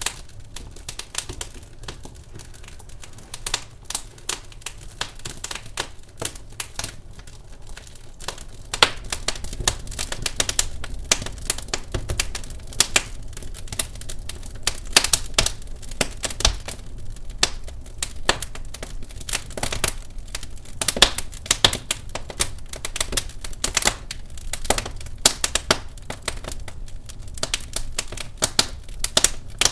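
Wood fire crackling in a fireplace: an irregular run of sharp snaps and pops, growing busier and louder about nine seconds in.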